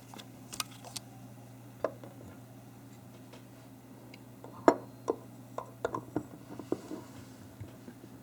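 Small, irregular clicks and taps of a 1:200 diecast model airliner being handled and fitted onto its display stand, the stand's peg not staying in the hole. The clicks are scattered, a few in the first two seconds and a denser run in the second half, over a low steady hum.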